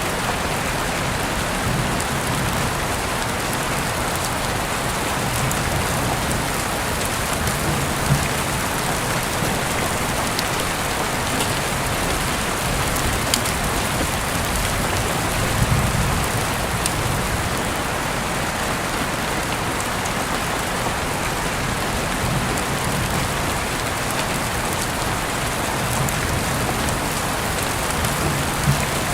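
Heavy rain falling steadily, a dense even hiss, with a few louder single drops striking close by.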